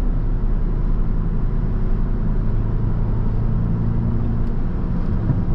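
BMW 330i's tuned 2.0-litre turbocharged four-cylinder running at a steady cruise with road noise, a continuous low drone heard from inside the car.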